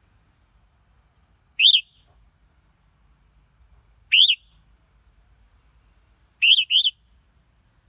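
Red-whiskered bulbul giving short, sharp chirps, each rising then falling in pitch, about one every two and a half seconds; the last comes as a quick double note.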